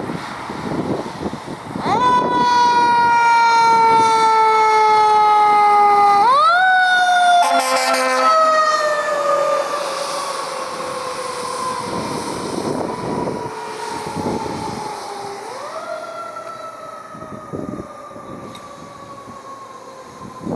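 Fire truck siren in a slow wail, winding up quickly and then sinking slowly in pitch, three times, with a short horn blast about a third of the way in, over the rumble of the truck passing.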